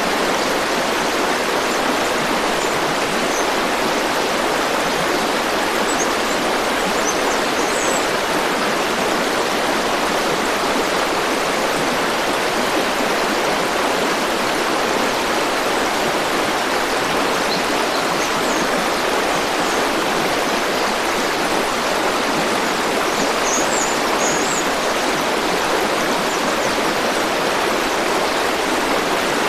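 River water flowing steadily in an even, unbroken rush, with a few faint high chirps now and then.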